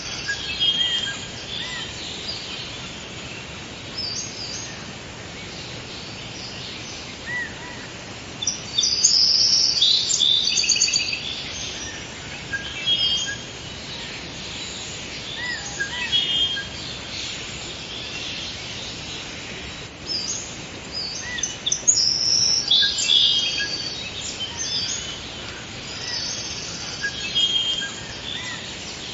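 Forest ambience of several birds singing and chirping over a steady background hiss, with louder bursts of song about a third of the way in and again about three quarters through.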